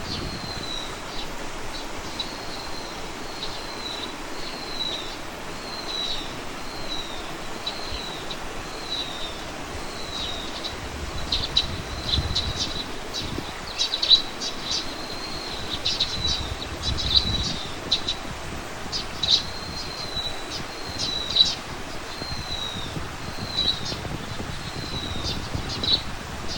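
Birdsong: one bird repeats a short, slightly falling whistled note about every second throughout. In the middle stretch a second bird adds quick, sharp chipping calls. Both sit over a steady outdoor background hiss.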